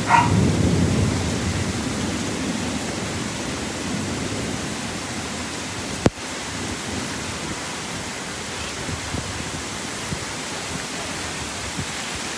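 Heavy rain pouring steadily in a storm, with a low rumble over the first couple of seconds and a single sharp click about six seconds in.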